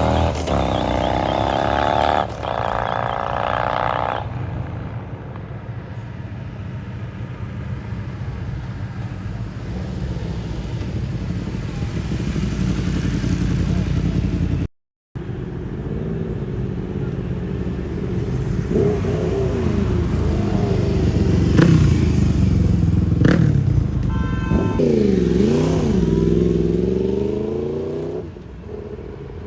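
Motorcycle engines running and being revved, rising and falling in pitch near the start and revving up and down several times in the last third, over crowd voices.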